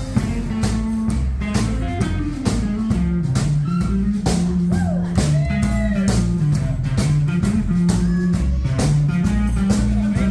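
Instrumental break of a country-blues song: a guitar plays a lead with bent notes over a walking bass line and a steady drum beat.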